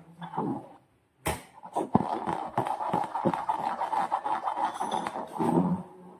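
Slime being handled, a dense run of sticky crackles and squelching clicks that starts after a brief silence about a second in.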